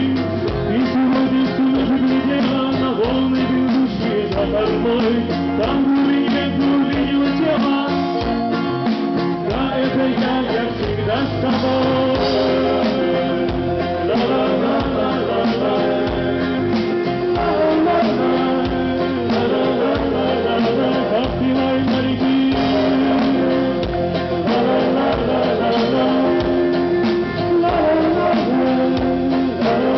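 A band playing a song, with guitar and other instruments over a steady beat.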